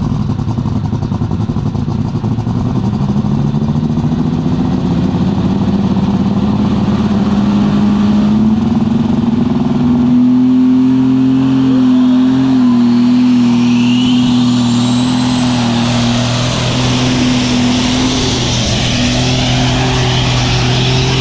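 Superstock pulling tractor's engine running flat out on a pull. Its pitch climbs steadily over the first ten seconds and then holds, and a high whistle rises over it from about thirteen seconds in.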